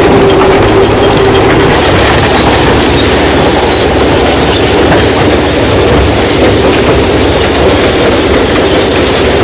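Stone crushing machine running with a loud, continuous dense clatter of rock being broken.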